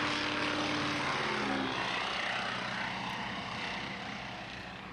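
Single-engine propeller airplane at takeoff power passing close by. Its engine note drops in pitch about a second in as it goes past, then slowly fades.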